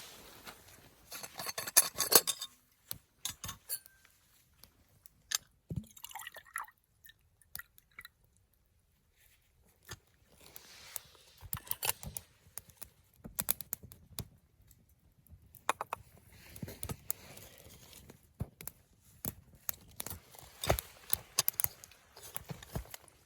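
Scattered small clinks, scrapes and crunches of camp cookware and food being handled or eaten, in short bursts with quiet stretches between.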